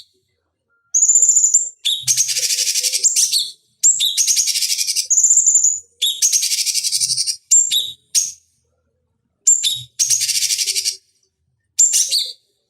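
Cucak cungkok songbird calling in repeated bursts of rapid high chattering, each about a second long and often joined to a short high whistled note, with silent gaps between the bursts.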